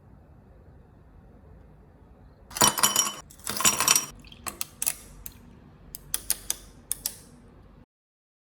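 Small hard objects clinking and rattling: two short bursts of rattling about two and a half seconds in, then a string of separate sharp clinks. The sound cuts off abruptly near the end.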